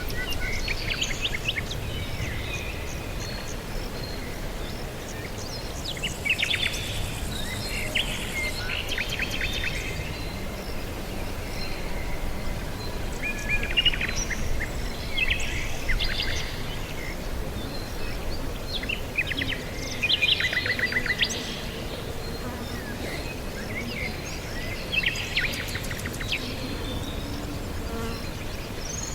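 Songbirds chirping in bursts of quick, repeated notes every few seconds, over a steady low rumble.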